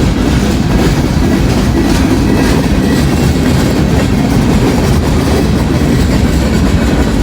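Freight train cars rolling past close by, a loud steady rumble of wheels on rail with clickety-clack over the rail joints.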